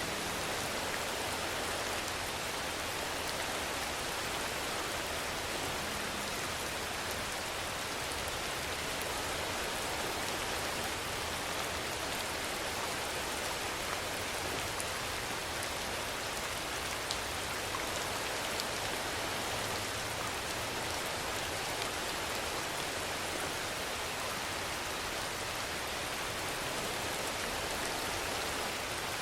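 Steady rainfall: an even hiss of rain with a few faint drop ticks.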